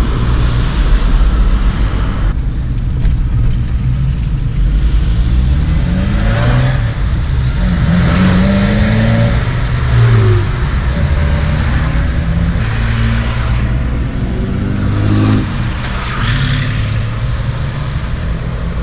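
A car driving, engine and road noise steady underneath, with the engine note rising several times as it accelerates.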